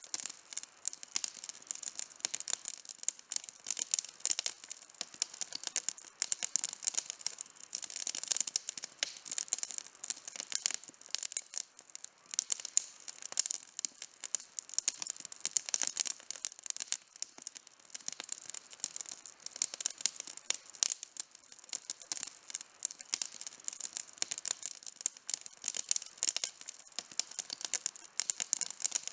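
Wood campfire burning with dense, continuous crackling and sharp little pops.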